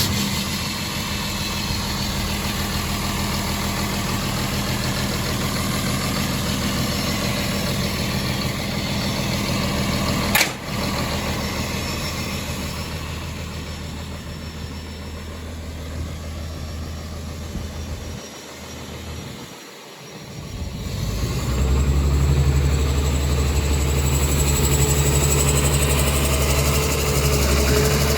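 Diesel engine of a CMI C250 Hurricane mulcher idling steadily, with one sharp click about a third of the way in. After a brief dip about two-thirds in, it runs up to a higher, louder speed with a high steady whine.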